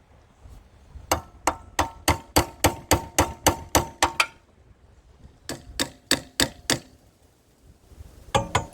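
Rapid metal-on-metal hammering, about four ringing strikes a second, in three runs with short pauses between them. It is a tool beating on part of an old pump engine that is stuck fast.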